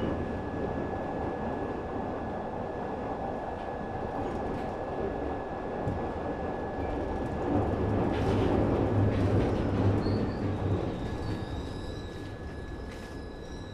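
Glasgow Subway train running through its tunnel: a steady rumble with a constant high whine. The rumble grows louder for a few seconds in the middle, and faint higher squealing tones join about ten seconds in.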